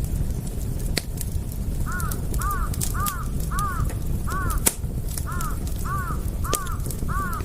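Campfire crackling and popping over a steady low rumble, with one sharp pop standing out just before the five-second mark. From about two seconds in, a bird gives a run of about ten short calls, roughly two a second.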